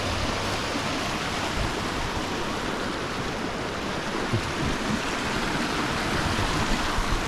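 Waterfall rushing steadily, a continuous even wash of falling water.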